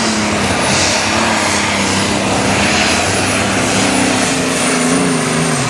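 Turbocharged diesel pulling tractor running at full throttle under load with a high, steady turbo whistle. The engine note drops near the end as it pulls down.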